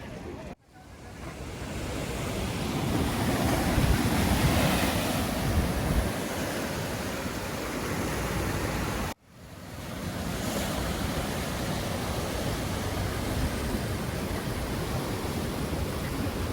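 Ocean surf washing and breaking, with wind on the microphone; a wave swells up a few seconds in. The sound cuts out abruptly twice, under a second in and about nine seconds in, fading back up each time.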